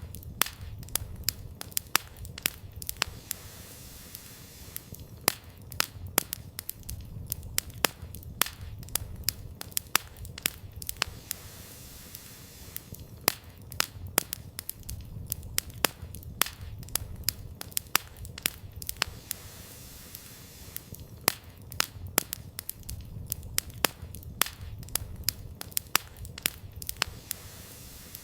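Wood campfire burning, firewood crackling and popping in quick irregular snaps, several a second, over a low rumble that swells and fades.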